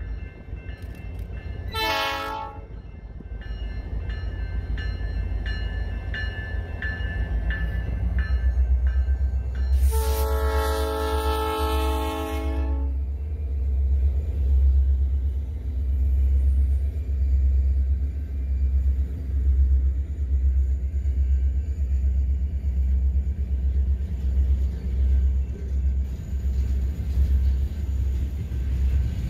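Diesel freight train passing close by: the locomotive's air horn gives a short toot about two seconds in and a longer blast around ten seconds in. Under the horn is the deep rumble of the locomotives and the rolling hopper cars, which grows louder and pulses as the cars go past.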